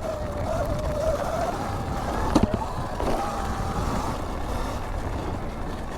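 2019 Sur-Ron electric dirt bike's motor whining, its pitch wavering with throttle and speed, over wind rumble on the microphone and tyre noise on dirt. About two and a half seconds in there is a sharp knock and the whine briefly drops away, then it picks back up slightly higher.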